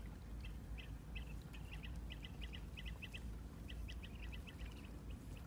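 Small birds chirping: many short, quick calls, often in pairs, over a low steady rumble.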